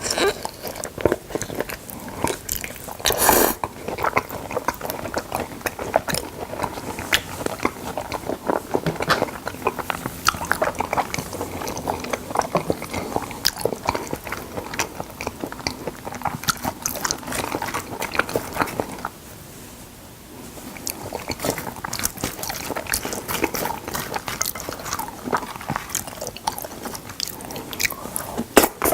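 Close-miked mukbang eating of salmon: a dense run of wet chewing and mouth-smacking clicks, with one louder noisy burst a few seconds in and a brief pause about two-thirds of the way through.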